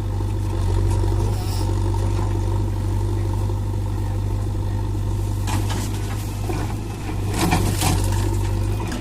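Heavy diesel engine running steadily with a deep, even hum, with short bursts of metallic clatter about halfway through and again near the end.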